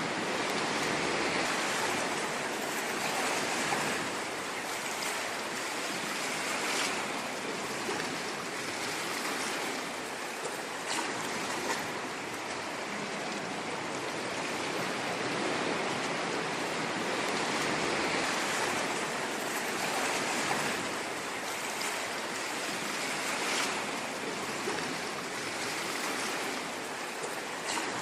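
Ocean waves washing on a shore, a continuous hiss of surf that swells and eases gently every few seconds, with a few brief crackles of breaking water.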